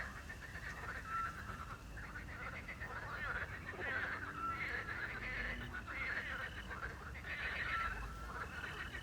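A chorus of frogs croaking in repeated bursts, over a steady background of crickets. A short whistled owl note sounds about every three seconds, three times.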